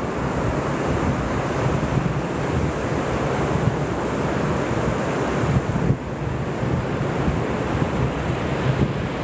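Ocean surf washing on a beach, a steady rushing noise, with wind buffeting the microphone in an uneven low rumble.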